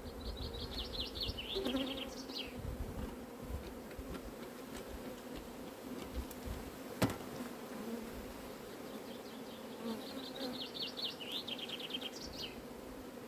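Honeybees buzzing steadily around an open hive in a low, even hum. A rapid trill of high notes comes twice, near the start and near the end, and a single sharp click sounds about seven seconds in.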